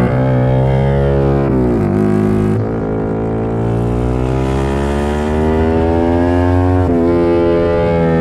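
Racing motorcycle engine at speed on a track. Its pitch drops around two seconds in, then climbs steadily as the bike accelerates, falls suddenly near seven seconds at a gear change, and climbs again.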